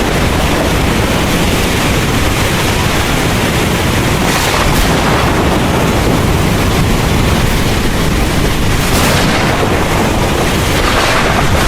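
Heavy rain pouring steadily over a continuous low rumble of thunder, with brief swells of louder hiss about four and a half, nine and eleven seconds in.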